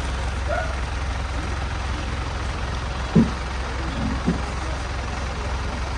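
Bus engine running with a steady low hum, with two short thumps about three and four seconds in.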